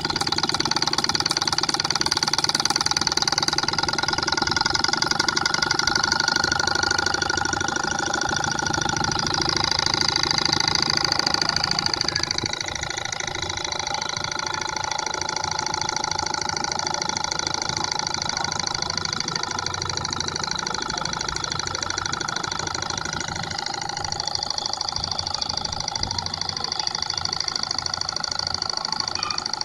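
Stirling engine running at steady speed, a fast even mechanical whirr with a high whine on top; it gets a little quieter about twelve seconds in.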